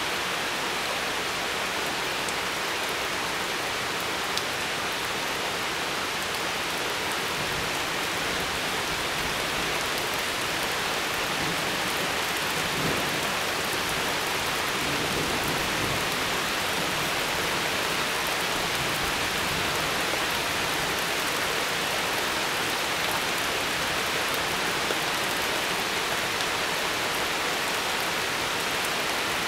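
Steady rain from a thunderstorm, an even hiss that holds without a break.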